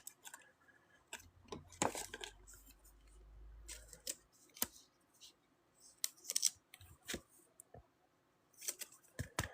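Scattered faint clicks and rustles from trading cards and foil pack wrappers being handled, with short snips or taps every second or so.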